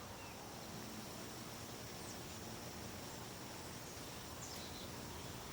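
Quiet rural outdoor ambience: a steady faint hiss of insects with two brief, faint bird chirps.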